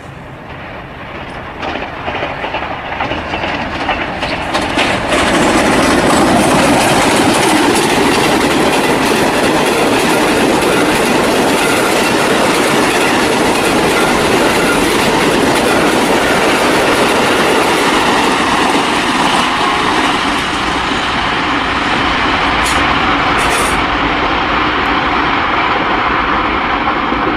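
Diesel-hauled passenger train approaching and passing close by, growing louder over the first five seconds or so, its coaches' wheels clattering over rail joints. Near the end, a railcar is running along the same kind of track.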